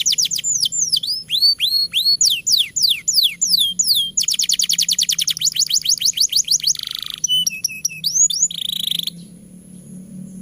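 Domestic canary singing a long, loud song. It runs from rapid trills of quickly repeated falling notes into slower downward-sweeping whistles, then another fast trill, and stops suddenly about nine seconds in.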